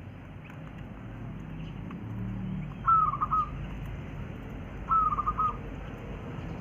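Wild quail calling twice, about two seconds apart: each call is a short high whistle that slides slightly down and breaks into a quick run of clipped notes.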